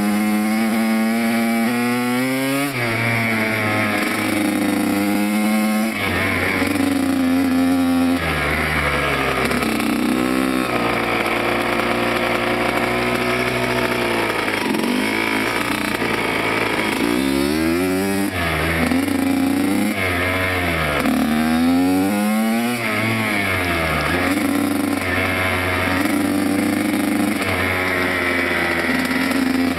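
Motocross dirt bike engines revving hard, the pitch climbing and dropping again and again as the bikes accelerate, shift and back off.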